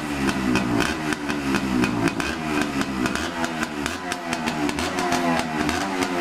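Small 125 cc single-cylinder Yamaha motorcycle engine running with no fuel tank fitted, at a high idle with its speed wavering slightly.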